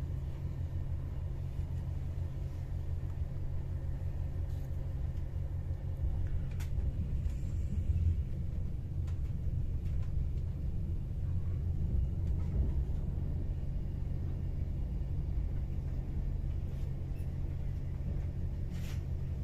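Steady low rumble of a moving train heard from inside the carriage, with a few faint clicks.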